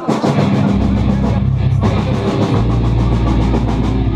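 Live rock band playing: drum kit with fast, even cymbal strokes over sustained bass notes and electric guitar.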